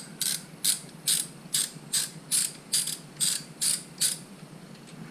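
Hand socket ratchet being swung back and forth to loosen a fastener: a run of short clicking strokes, about two a second, that stops about four seconds in.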